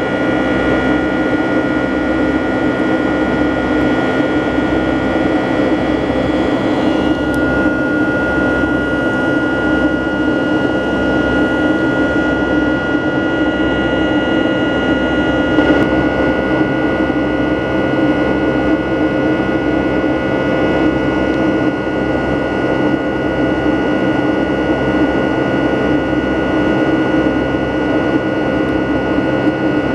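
Boeing 757-200's Rolls-Royce RB211 turbofans heard inside the passenger cabin in flight: a steady rush of engine and air noise with high whining tones on top, which shift slightly in pitch about a third of the way in and again about halfway.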